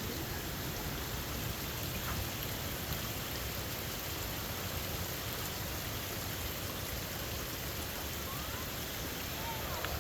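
Steady rush of falling water from a waterfall, an even roar with no break.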